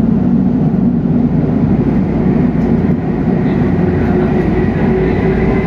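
Tokyu 8500 series electric train running: a steady rumble of wheels and running gear, with a faint whine from its Hitachi traction motors that grows clearer in the second half.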